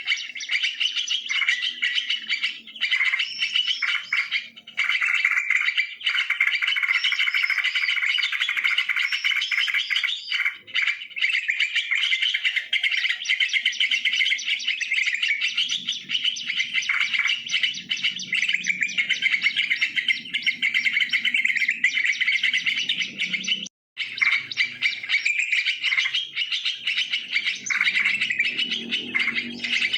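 Yellow-vented bulbuls chattering in a dense, continuous stream of quick bubbly chirps, with a momentary cut-out about three-quarters of the way in.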